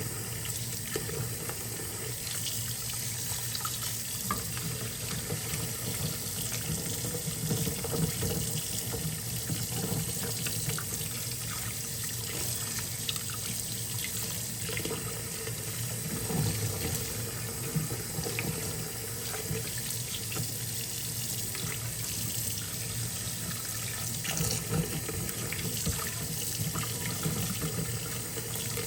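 Kitchen faucet running steadily into a sink, with water splashing over plastic model parts held in a strainer and small clicks of the parts shifting.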